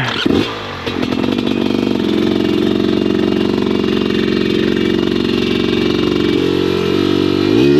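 Dirt bike engine held at high, steady revs, the pitch stepping down about six seconds in and falling away near the end.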